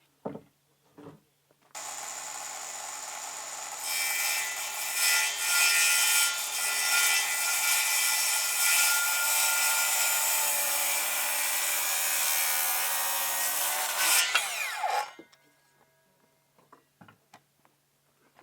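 Electric power saw starting up and running, then cutting through wood for about ten seconds with an uneven, louder sound. The motor whine falls away as it spins down at the end. A few light knocks come just before it starts.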